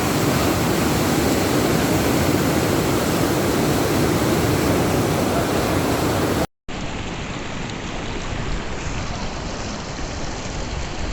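Rushing stream water, a steady even roar. It cuts out abruptly about six and a half seconds in, then carries on quieter and duller.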